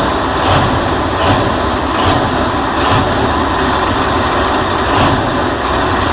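Loud, steady engine noise of a competition pulling tractor under full load, with a sharp high tick about every three-quarters of a second.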